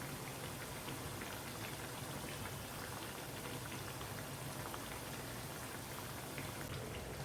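Dal vadas (tur dal fritters) deep-frying in hot oil: a steady sizzle with fine crackling as they cook toward golden brown over medium-low heat.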